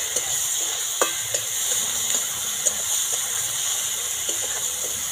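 Onion, tomato and ginger-garlic paste sizzling in hot oil in a metal kadai, stirred with a metal spatula that scrapes and clicks against the pan a few times.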